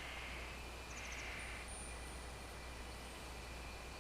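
Faint outdoor nature ambience: a steady hiss with thin, steady high insect-like tones, and a brief run of quick high chirps about a second in.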